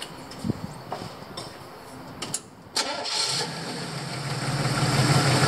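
A Chevrolet 327 small-block V8 with a four-barrel Holley carburettor is started about three seconds in, already warm and fed LP gas through the primaries. It catches at once and runs steadily, growing louder toward the end. A few faint knocks come before it.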